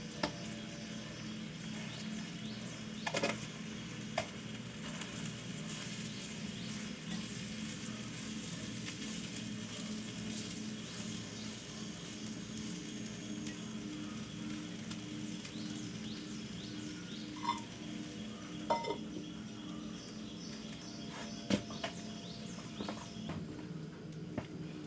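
Food sizzling steadily in a pan, with a few sharp clinks of a utensil against the pan or dishes.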